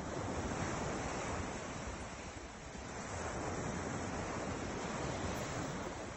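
Ocean waves breaking and washing onto the shore: a steady rushing surf that surges at the start, eases a little about two seconds in, then builds again.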